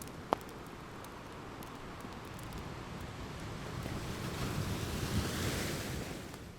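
Ocean waves washing onto a shore, one wave building about halfway through, peaking around five seconds in and then drawing back. An open fire crackles under it, with one sharp pop near the start.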